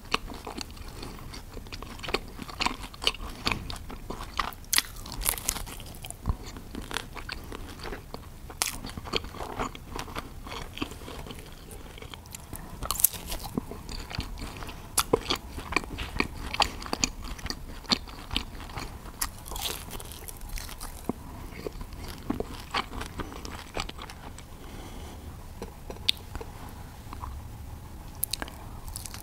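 Close-miked chewing and crunching of crispy breaded chicken schnitzel: an irregular run of sharp crunches as the breaded crust is bitten and chewed.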